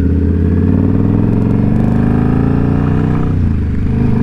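Indian Scout Bobber's V-twin engine pulling under acceleration, its pitch rising for about three seconds, then dipping briefly and settling steady at a lower pitch.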